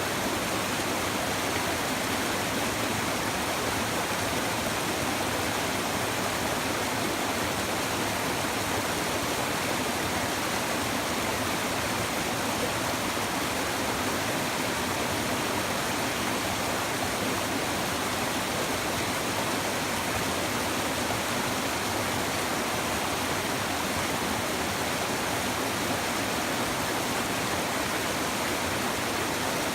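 Shallow river babbling over stones, a steady even rush of running water.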